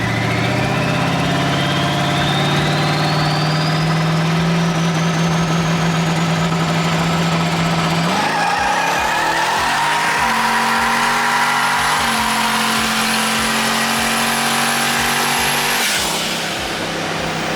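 Twin-turbo LS V8 in a Fox-body Mustang running loud and steady under way, its pitch holding and then stepping up partway through before falling away near the end. A high whistle rises slowly over it.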